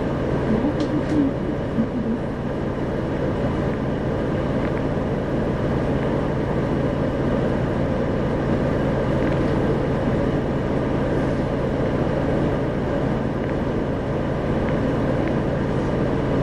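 Isuzu 2RG-LV290N4 city bus heard from inside the cabin while under way: a steady diesel engine hum with road and tyre noise.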